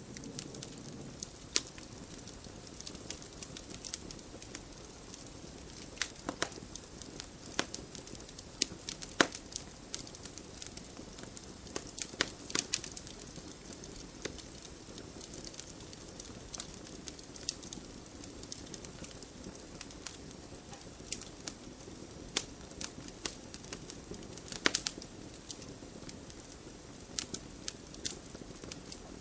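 Wood fire burning in a fireplace: a soft steady hiss with irregular sharp crackles and pops from the burning logs, a few louder snaps among them.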